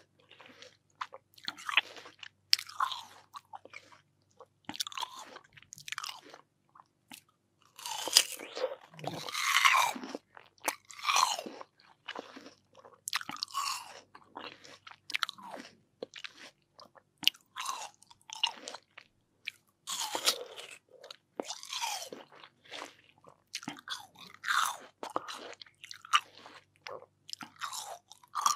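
Close-miked bites and chewing of crisp, juicy watermelon, crunching in irregular clusters every second or two with short quiet gaps between them.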